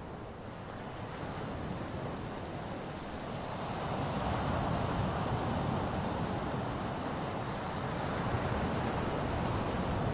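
Ocean waves surging and washing on the shore, a steady rushing that swells louder about three to four seconds in.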